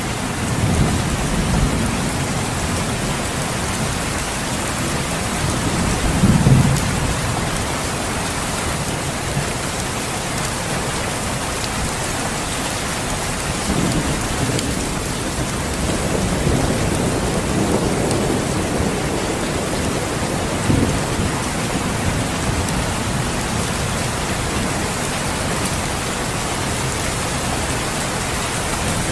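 Steady heavy rain with low rolls of thunder, the loudest about six seconds in and weaker ones around the middle and about twenty seconds in.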